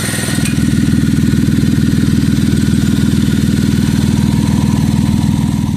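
Chevy Traverse engine idling with a loud, steady low pulsing from the exhaust, which gets louder about half a second in. The noise comes from a leaking exhaust: the weld on the bracket holding the exhaust has broken, leaving a big hole.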